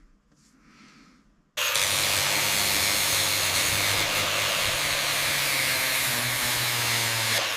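A motor-driven tool starts abruptly about one and a half seconds in and runs steadily: a loud, even hiss over a low motor hum.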